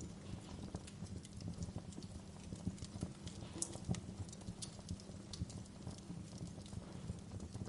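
Fire crackling: irregular small crackles and pops, with a couple of sharper pops near the middle, over a low steady rumble of the flames.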